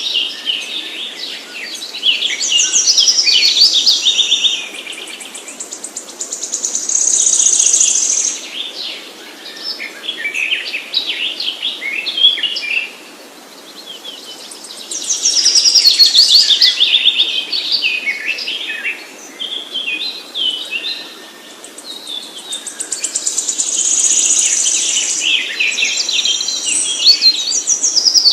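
Small birds chirping and twittering in rapid high notes, in loud overlapping bouts that swell and fade with short lulls between.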